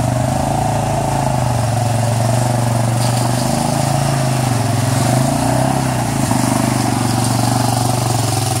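Off-road vehicle engine running steadily, its pitch rising and falling slightly with the throttle.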